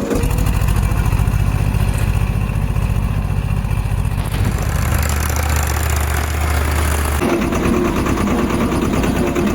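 Tractor diesel engine running steadily, its note shifting about halfway through and again after about seven seconds.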